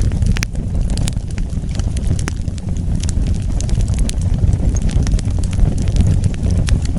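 Wood fire burning, with a steady low rumble of flames and sharp crackles and pops scattered irregularly throughout.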